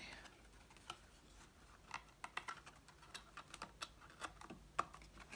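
Faint, irregular clicks and light taps of cardstock pieces being handled and pressed together, several short ticks a second at uneven spacing.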